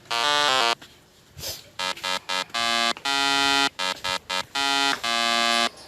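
Electronic beeping melody: a run of short, buzzy synthesized notes, then a pause of about a second, then more notes, some of them held longer.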